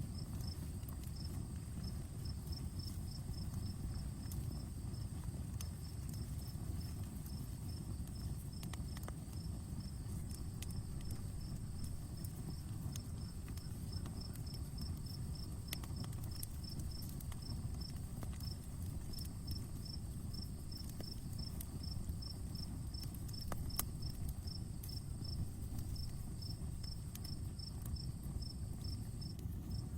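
Campfire burning, with scattered sharp crackles over a low steady rumble. Crickets chirp in an even rhythm, two to three chirps a second, over a steady high insect hum.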